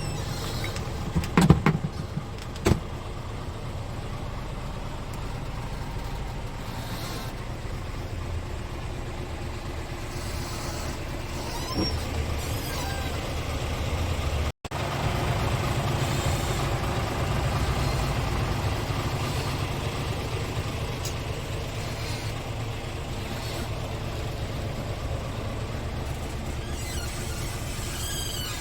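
Scania R450 truck's diesel engine idling steadily, with a few sharp knocks in the first three seconds. After a brief dropout about halfway, the idle goes on slightly louder.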